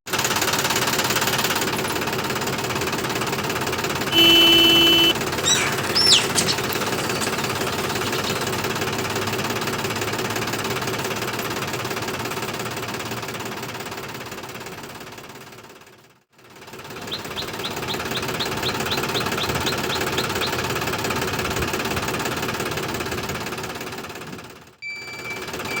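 Small motor of a toy tractor running steadily with a buzzing, rattling sound, with a short pitched tone about four seconds in. The sound fades out almost to silence twice, past the middle and near the end, and comes back each time.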